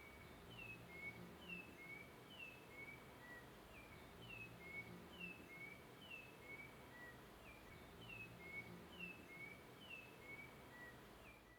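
Faint bird chirping: short, high, falling chirps repeated about twice a second over a low background hum.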